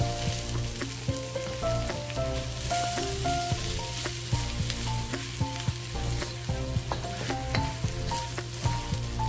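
Chopped fried milkfish sizzling in a steel wok while a wooden spatula stirs and scrapes it, with scattered knocks of the spatula against the metal. A soft background music melody plays throughout.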